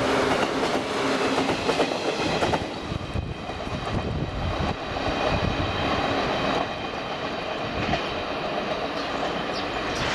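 Local electric multiple-unit train running past at close range, its wheels clattering over the rail joints. The sound drops about two and a half seconds in and carries on lower as the train moves away down the line.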